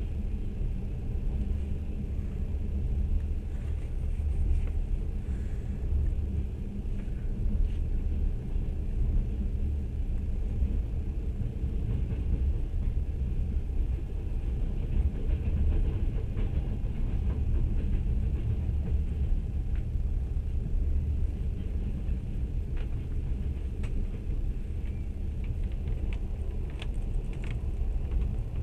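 A train running at steady speed, heard from on board: a constant low rumble of the wheels rolling on the rails, with faint ticks and clicks in the second half.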